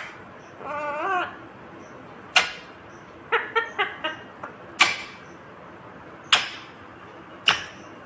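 Indian ringneck parakeet calling: a short wavering, chattering call near the start, then a series of sharp high squawks about a second apart, with a quick run of short chirps in the middle.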